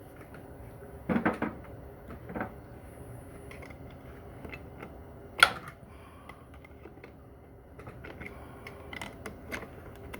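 Scattered metal clicks and clinks of hand tools against transmission parts, with a short clatter about a second in and one sharp, louder clink about five seconds in.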